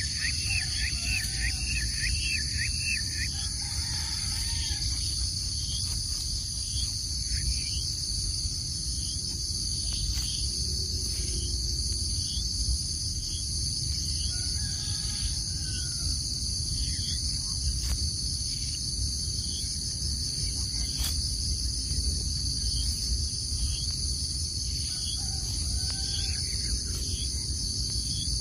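Steady high-pitched insect chorus over a low rumbling background, with a quick run of chirps in the first few seconds and scattered short bird calls.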